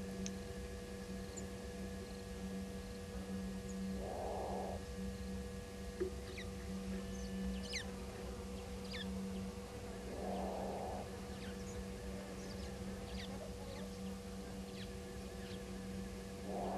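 An unidentified animal call, a short rasping sound repeated about every six seconds, over a steady electrical hum, with small birds chirping.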